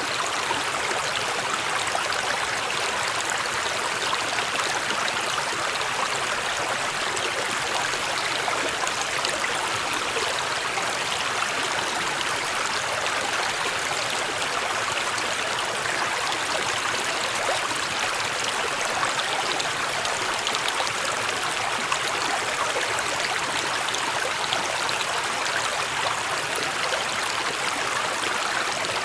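Small mountain stream running over rocks: a steady rush of water with fine splashing and babbling.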